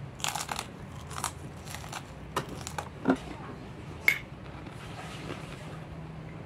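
Crisp cracker being bitten and chewed close up, a handful of short crunches over the first three seconds, then a metal spoon clinking once against the bowl about four seconds in.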